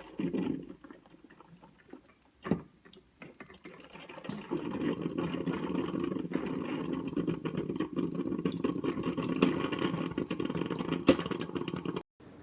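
Steady, fluttering liquid sound from a drip coffee maker at work, starting about four seconds in and cutting off sharply near the end, after a single thump early on.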